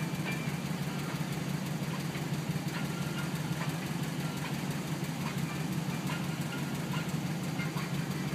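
1982 Chevrolet El Camino's engine idling steadily, heard from inside the cab.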